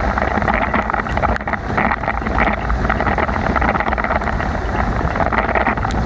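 Bicycle riding on a rain-soaked road in heavy rain: a steady hiss of water spray and rain with lots of fine spattering, and wind buffeting the microphone.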